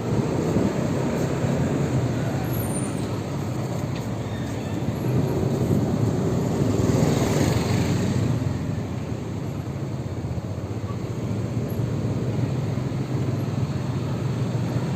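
Steady vehicle and road noise, a low rumble without any clear engine note, swelling briefly about halfway through.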